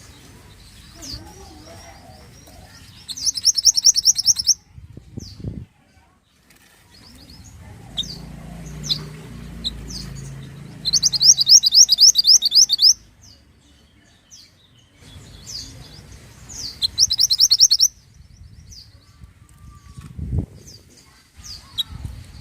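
A mantenan songbird singing: three bursts of fast, evenly repeated high notes, each lasting a second or two, with single chirps between them.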